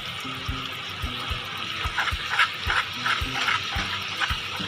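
Sauce of soy sauce, chili sauce, ketchup and vinegar simmering in a pan over a gas flame: a steady hiss with many small bubbling pops and crackles, thickening toward ready.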